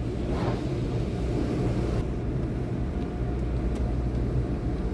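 Car engine idling with a steady low rumble, heard from inside the cabin, with a faint hiss during the first couple of seconds.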